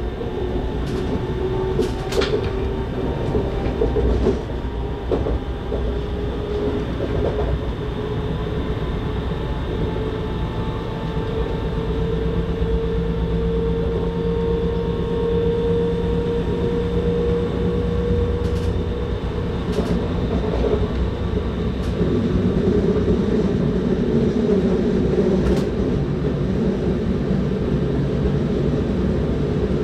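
Inside a moving electric S-Bahn train: the steady rolling noise of wheels on rails, with a steady whine and a few sharp clicks from the track.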